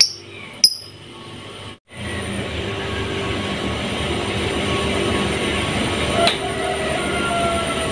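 Two short, high bird chirps near the start. After a brief drop-out, a steady mechanical rumble with a faint hum takes over, a vehicle running.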